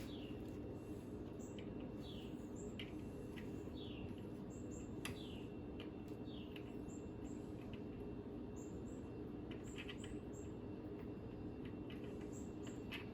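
Birds chirping with short repeated falling calls about once a second, over a steady low background hum, with a few faint clicks.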